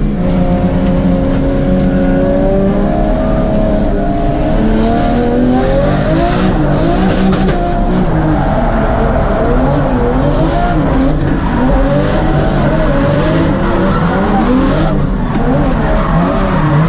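Drift car's engine heard from inside the cabin. The revs climb steadily at first, then from about five seconds in rise and fall again and again as the driver works the throttle through the slide. Tyres skid under it.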